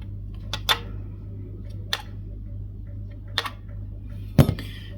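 A handful of short, sharp clicks and taps from small tools and parts being handled on the bass during a string-height setup, with a heavier knock near the end, over a steady low hum.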